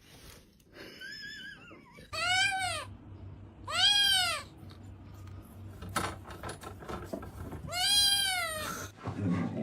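A cat meowing: three loud, drawn-out meows, each rising and then falling in pitch, with a fainter, higher, wavering cry just before the first.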